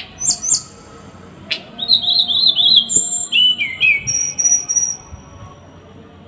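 Small songbird singing sharp, rapid 'tembakan' (shot) notes: two quick high whistled strokes, then a fast run of about five chirps, then falling notes and a long held high whistle.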